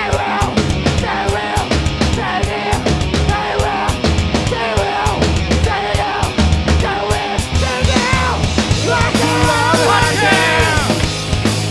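Rock band playing live: fast punk-rock with a pounding drum kit, electric guitar and bass, continuous and loud.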